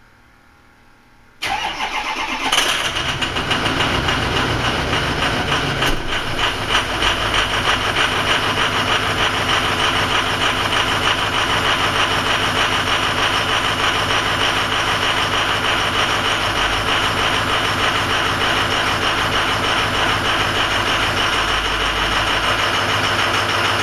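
A 2006 Ford F-250's 6.0 Power Stroke V8 turbo-diesel starts cold, catching about a second and a half in and then running steadily. The owner says this engine suffers from injector stiction on cold starts.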